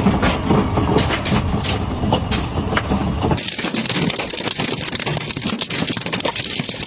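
Hailstones pelting down, many separate sharp hits over a low rumble. About three and a half seconds in, the sound changes abruptly to a dense, hissing downpour of hail and rain, still full of hits.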